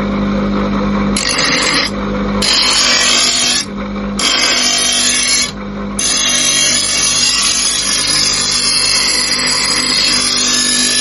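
Angle grinder grinding the iron part in bursts: a steady motor whine, with harsh grinding hiss cutting in about a second in, breaking off briefly twice, then running on continuously from about six seconds in.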